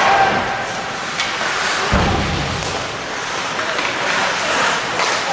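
Ice hockey game sounds in a rink: a steady noisy background of play, with one heavy thud about two seconds in, such as a puck or player hitting the boards.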